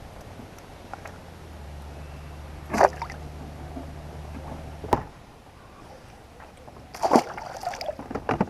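Sharp knocks and light water sloshing against a fishing kayak, with a low steady hum for a few seconds in the middle that stops at a knock about five seconds in.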